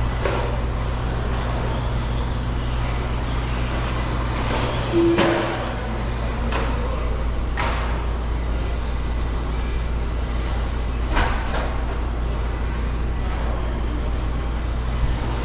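Radio-controlled stadium trucks racing on a dirt track, over a steady low hum. Several brief passes or landings stand out, the loudest about five and eleven seconds in.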